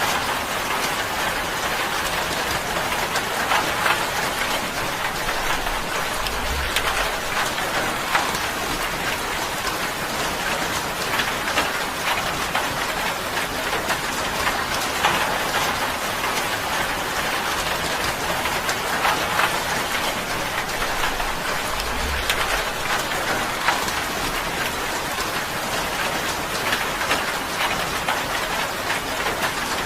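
Steady rain falling on a tin roof: a dense, even hiss with countless individual drop impacts ticking through it.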